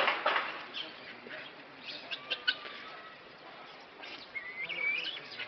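A bird calling: a few short chirps, then one whistled call that rises in pitch about four and a half seconds in, among a few faint clicks.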